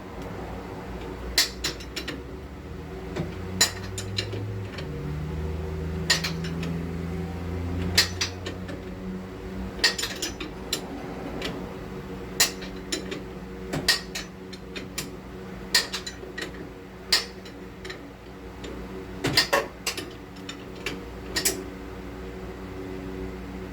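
Steel hand tools and sockets clinking and tapping against metal in irregular single knocks while working on a car's front suspension. A steady low shop hum runs underneath, and a low drone rises and holds for a few seconds about five seconds in.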